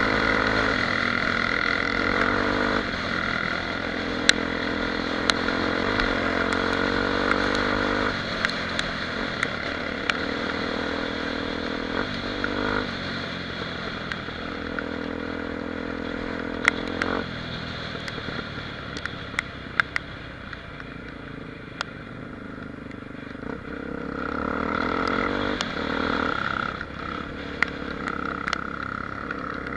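Honda Tornado XR 250's single-cylinder four-stroke engine running while riding, its pitch rising and falling with throttle and gear changes. It eases off for a few seconds past the middle, then picks up again. Sharp ticks come and go throughout.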